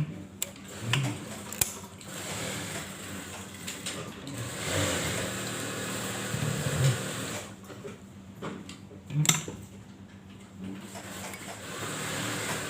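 Typical sewing machine running in short, uneven spells, with a few sharp clicks.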